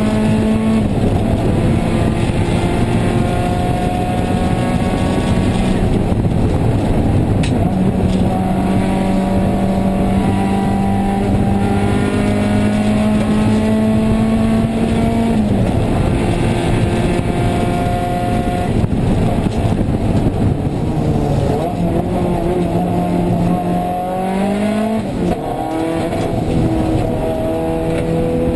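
Nissan 180SX rally car's engine heard from inside the cabin, pulling hard with its pitch climbing steadily and dropping sharply at each gear change.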